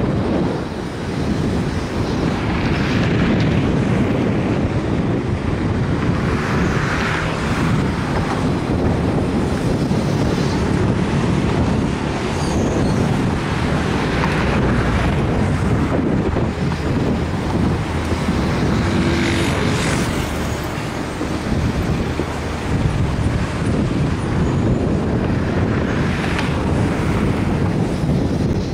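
Broad-gauge long-distance passenger coaches rolling slowly past, a steady low rumble of wheels on rails with a brighter swell every few seconds, and wind buffeting the microphone.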